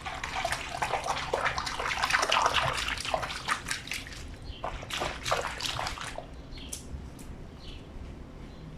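Water splashing and sloshing as a wet blanket is washed by hand in a granite laundry sink, busy for about six seconds and then dying down. A few faint bird chirps come near the end.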